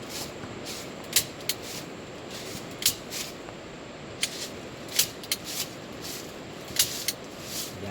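Steady hiss of rain, with irregular sharp clicks and taps scattered through it.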